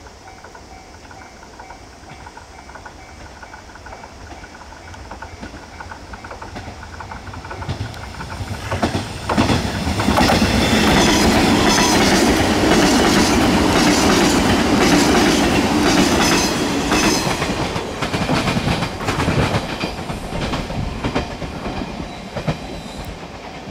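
JR 381 series electric express train approaching and passing at speed. It grows louder over several seconds, runs loudest for about seven seconds from ten seconds in, then fades away with wheels clattering over the rail joints.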